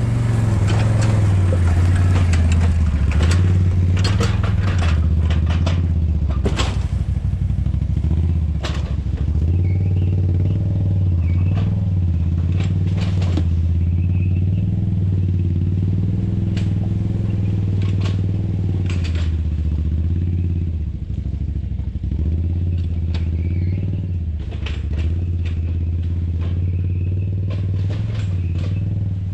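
Can-Am ATV engine running steadily while riding, its pitch shifting up and down a little, with frequent rattles and knocks throughout.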